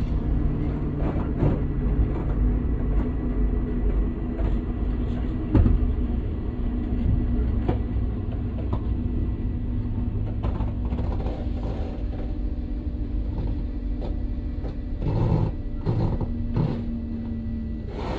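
Regional diesel train running along the line, heard from inside the passenger car: a steady low rumble of wheels and running gear with a held hum from the drive, and occasional knocks from the rails, the strongest about five and a half seconds in.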